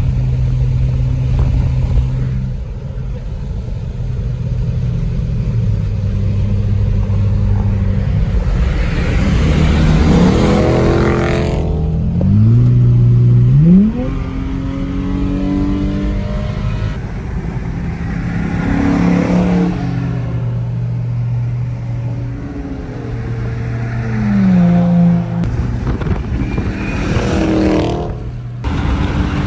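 Cars driving by with engines revving and accelerating. The engine pitch climbs sharply about 12 to 14 seconds in, and cars sweep past about three times.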